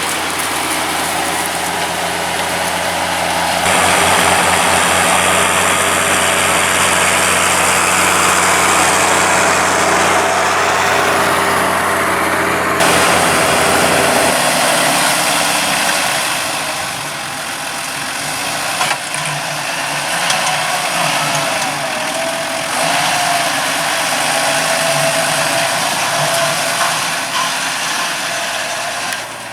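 John Deere 6520 tractor engine running steadily while pulling a four-furrow Kuhn plough. The sound changes abruptly about four seconds in and again about fourteen seconds in, the deep engine tone thinning out after the second change.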